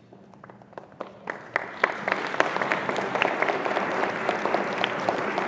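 Audience applause: a few scattered claps at first, building about a second in into steady full clapping.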